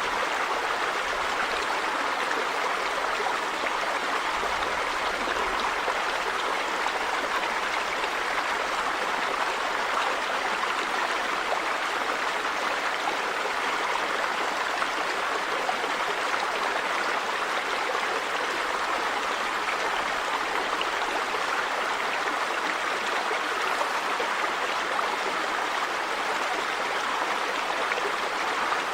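Steady rushing of a river or stream flowing over rocks, an even water noise with no breaks.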